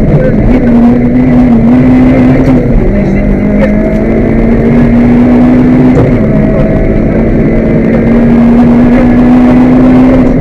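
Peugeot 206 GTi rally car's four-cylinder engine running hard under load, heard inside the cabin. The engine note dips about three seconds in and again about six seconds in, then climbs steadily each time.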